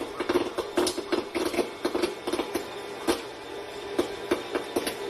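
Quick, uneven series of sharp taps or knocks, about three to four a second, over a faint steady hum.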